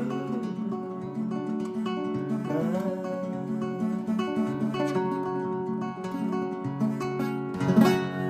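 Acoustic guitar playing the song's closing instrumental bars, with no singing, ending on a hard strummed chord near the end that rings on.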